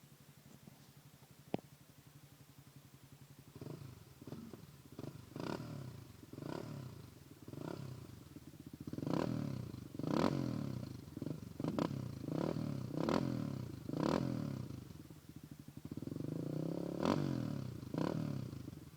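Honda TRX400EX ATV's single-cylinder four-stroke engine through a Trinity aftermarket exhaust, idling and then blipped on the throttle a dozen or so times about a second apart, with one longer rev near the end before it settles back to idle. A single sharp click sounds shortly before the revving starts.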